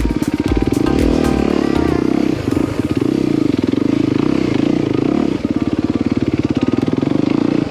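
Four-stroke dirt bike engine running while riding a trail, its rapid firing pulses steady, with brief dips in throttle a couple of times.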